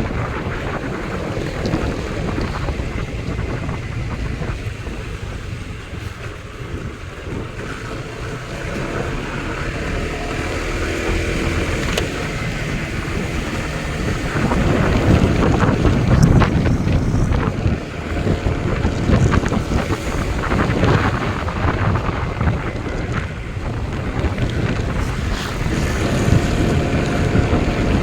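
Wind buffeting the microphone: a steady rushing rumble that swells in gusts and grows stronger about halfway through.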